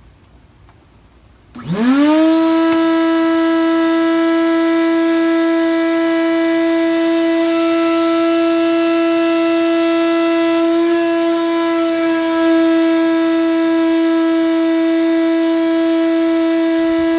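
Craftsman shop vacuum motor switched on about a second and a half in. It spins up in a fraction of a second to a loud, steady, high whine, noisy as heck.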